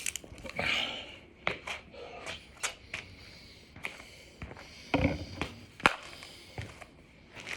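Scattered knocks and clicks of a man moving through burpees on a floor, with one heavier thump about five seconds in.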